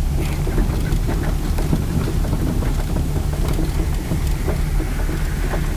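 Honda Civic's naturally aspirated, low-compression D16 SOHC four-cylinder engine running steadily at low revs, heard inside the cabin, with scattered light clicks and rustles.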